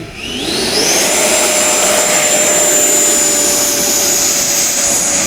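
FMS 80 mm electric ducted fan on an RC model jet spooling up: a rising whine over about the first second, then a steady, loud high-pitched whine with a rushing air sound at full throttle.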